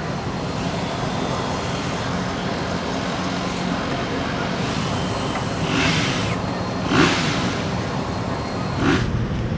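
Steady low mechanical hum, with three short hissing bursts: one a little under six seconds in, one about seven seconds in, and one near nine seconds in.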